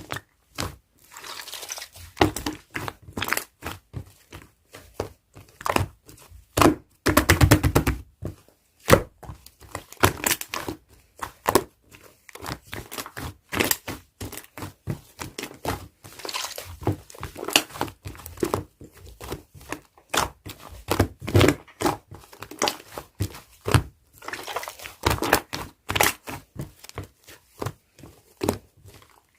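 Slime being squished, pressed and folded by hand while two colours are mixed, giving a dense run of sharp clicks and pops with crackling stretches in between.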